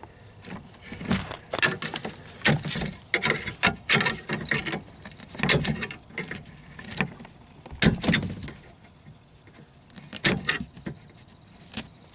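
Irregular metallic clicks, knocks and rattles from hands working the door handle and its linkage inside a 1994 Geo Prizm's door shell.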